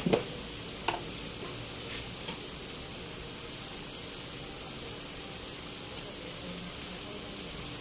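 Pork and offal sizzling steadily in a wok, an even hiss, with a few light clicks in the first couple of seconds.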